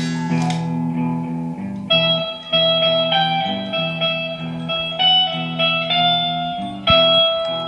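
Plucked guitar music: held low notes under a slow melody of single picked notes, a new note struck roughly once a second from about two seconds in.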